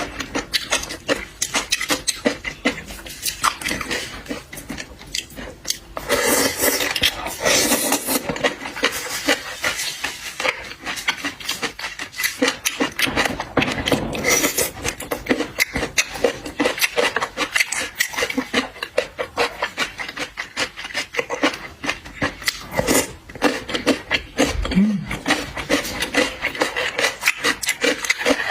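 Close-miked eating of seafood: continuous chewing, smacking and sucking, full of rapid wet clicks and crackles.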